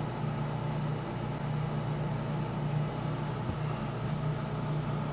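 A steady low hum, with one faint click about three and a half seconds in.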